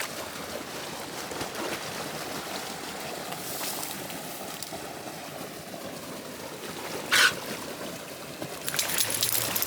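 Stream water running steadily, with a short sharp noise about seven seconds in.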